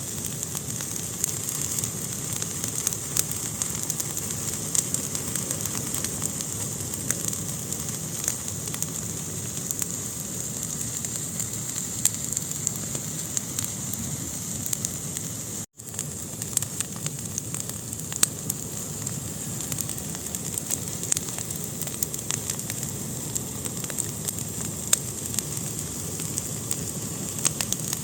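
Wood fire burning in a fireplace: a steady hiss with frequent sharp crackles and pops. The sound cuts out for a split second about halfway through.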